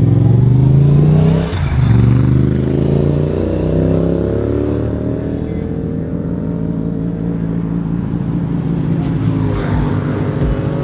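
Vehicle engine pulling hard under acceleration. Its pitch drops sharply about a second and a half in at a gear change, then climbs steadily through the gear. A music track with a steady beat comes in near the end.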